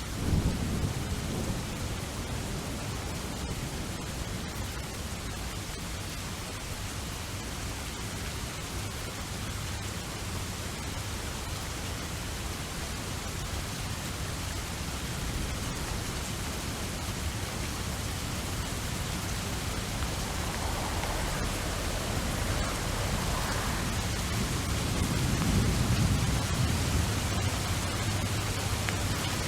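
Steady heavy rain, with low rolls of thunder right at the start and again near the end.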